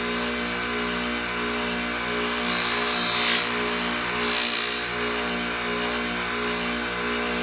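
Electric buffing wheel running steadily, with a slight regular pulsing in its hum, as a 14k gold pendant is polished on it. The motor starts just before and shuts off just after.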